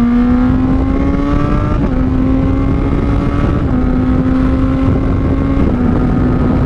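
Honda CBR600RR inline-four running through an aftermarket Toce exhaust under load while riding. The note climbs over the first two seconds, then holds nearly steady with brief breaks near two, three and a half and five and a half seconds, like clutchless quickshifter gear changes. Wind rushes over the microphone underneath.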